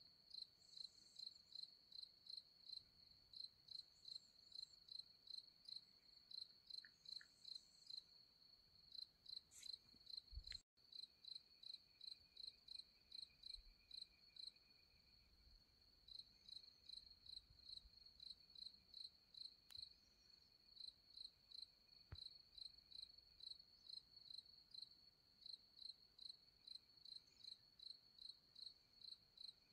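Crickets chirping faintly in a steady high-pitched pulse, about two chirps a second. There is a brief soft knock about ten seconds in.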